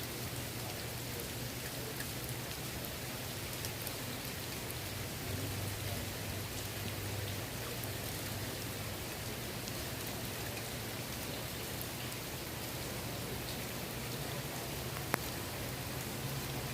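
Steady rain falling on a swimming pool, an even patter with a low steady hum underneath. One sharp tick stands out about fifteen seconds in.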